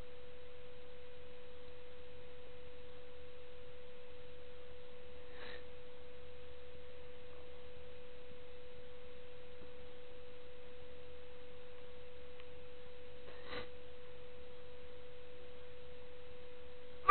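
A steady pure tone held at one pitch without any change, with two faint clicks, one about a third of the way in and one about three quarters of the way in.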